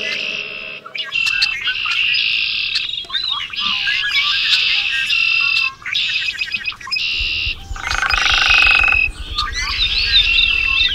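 Field recordings of several birds singing and calling one after another: quick chirps, whistled notes and trills. About eight seconds in there is a rapid buzzy trill, and a low fast pulsing runs under the last few seconds.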